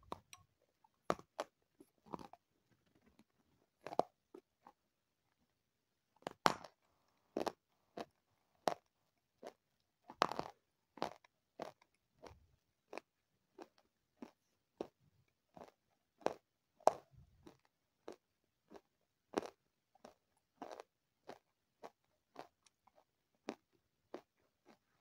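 Close-miked eating sounds: a person biting and chewing something crunchy, with a run of short, sharp crunches about once a second.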